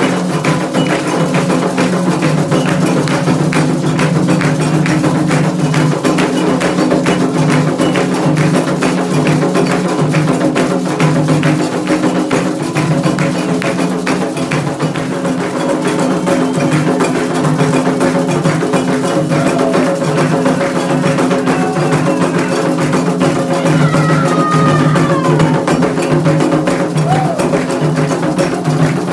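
Candomblé atabaque drums playing for Xangô: continuous, fast, steady hand-drum rhythm with a sharp clacking percussion part on top.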